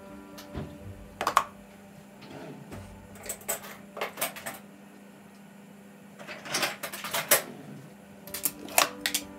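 Irregular clicks and clinks of household objects being handled and set down, with a busier cluster about six to seven seconds in, over a faint steady hum.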